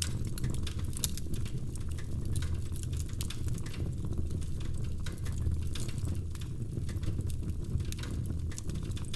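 Wood fire burning in a fireplace, crackling with many small irregular pops over a steady low rumble, one sharper pop about a second in.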